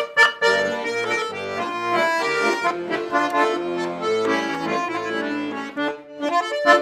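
Accordion playing an instrumental passage of a folk-style song: a melody over a regular rhythmic bass-and-chord accompaniment.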